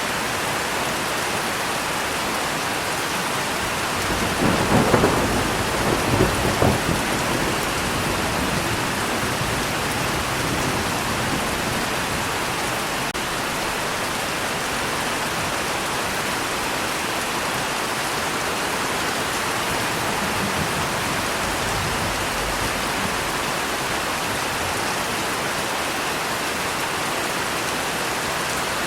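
Steady rain falling, with a roll of thunder rumbling about four to seven seconds in before the rain carries on alone.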